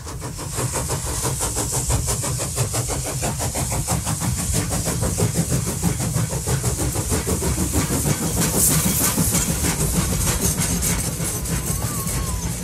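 A train running, with a fast, even beat over a heavy rumble and a steady hiss.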